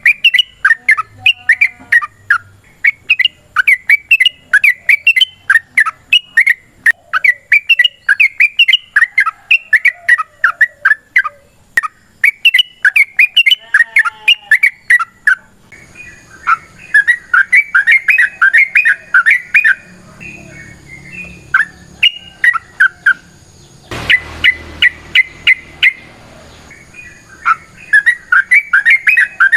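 Yellow-vented bulbul (trucukan) singing long runs of rapid, bubbly chattering phrases, repeated with short gaps. About halfway through a faint steady high whine and low background noise come in, with a short burst of noise a little past two-thirds of the way.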